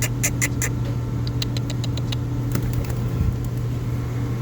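A steady low machine hum, with a quick run of light clicks and taps through the first half.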